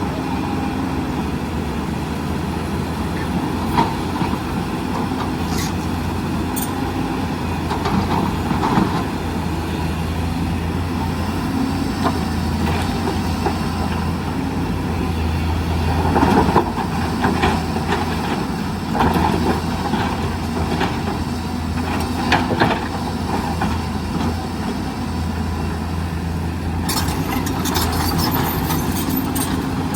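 Hyundai excavator's diesel engine running steadily, swelling louder for stretches as it works. Through the middle come several short metallic clanks and scrapes.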